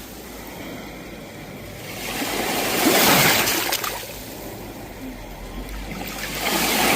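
Sea waves washing onto the shore. One wave swells to a loud rush about three seconds in and then fades, and the next starts to build near the end.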